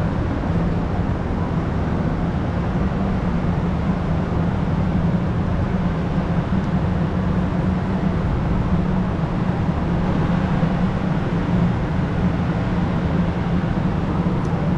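A steady low hum under a continuous wash of noise, like a motor running, with no breaks or sudden events.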